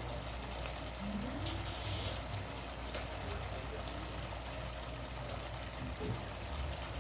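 Pork ribs and onions frying in a pan, a steady sizzling hiss.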